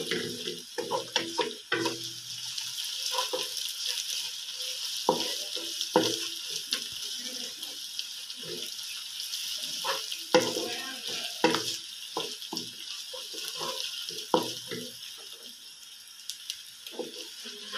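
Sliced onions, whole spices and ginger-garlic paste sizzling in hot oil in a wok, with a steady hiss. A wooden spatula scrapes and taps irregularly against the pan as they are stirred.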